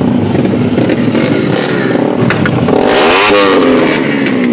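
Racing superbike engines running at speed. About three seconds in, one bike passes close, its engine pitch rising and then falling as it goes by.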